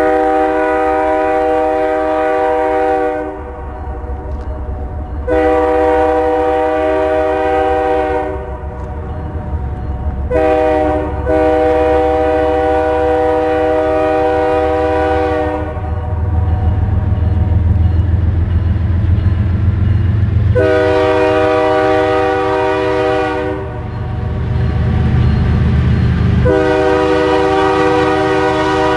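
Lead BNSF GE Dash 9 diesel locomotive sounding its multi-chime air horn in the long-long-short-long grade-crossing signal, then two more long blasts. The low diesel rumble of the passing locomotives builds beneath the horn and is loudest late in the sequence.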